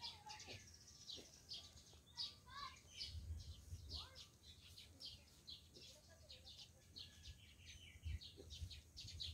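Faint outdoor chorus of small birds chirping, many quick high chirps one after another, with a low rumble now and then.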